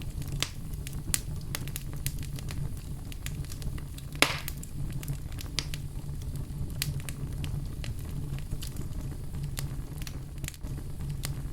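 Wood campfire crackling, with irregular small pops and one sharper pop about four seconds in, over a low steady hum.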